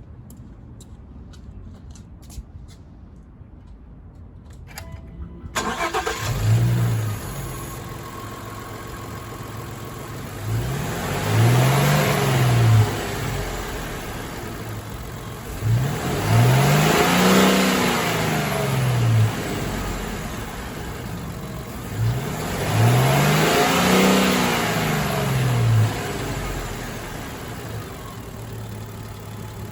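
A 2021 Ford Transit 250 van's engine starting about five seconds in after a few faint clicks, settling to an idle, then revved three times, each rev rising and falling in pitch before dropping back to idle.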